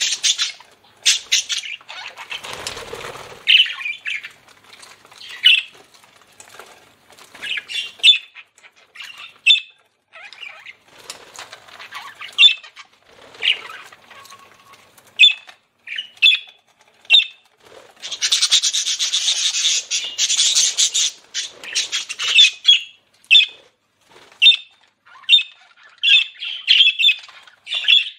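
Budgerigars chirping in short repeated calls, with a denser stretch of scratchy chatter lasting about three seconds past the middle.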